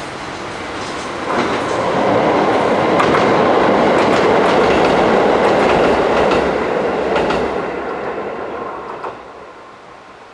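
Passenger train passing: a rushing rumble that swells about a second in and fades over the last few seconds, with wheels clicking over rail joints.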